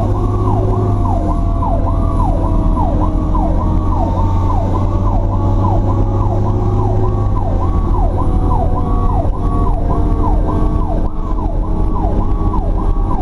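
Fire truck siren on a rapid yelp, its pitch sweeping up and down about twice a second, heard from inside the cab over the truck's engine. Under it a steady siren tone slowly drops in pitch.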